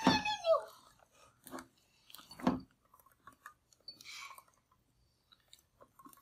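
Sticky homemade slime being handled: small wet, squelching sounds and scattered clicks, with a thump about two and a half seconds in and a short hiss near four seconds. A voice trails off at the very start.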